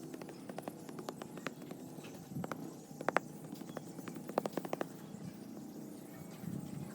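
A series of irregular light taps and clicks, like hard objects being knocked or set down. The loudest come about three seconds in and in a quick cluster about a second later.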